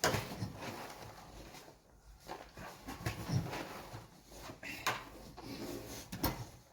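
Handling noise from making up horse feeds: a sharp knock at the start, then scattered rustles and light knocks of scoops and feed buckets.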